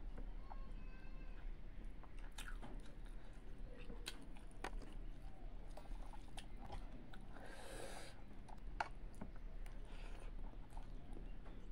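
Close-up eating sounds of a person chewing mouthfuls of rice and fish, with many small wet clicks from the mouth and from fingers mixing rice on a steel plate, and a brief hissy swish about eight seconds in.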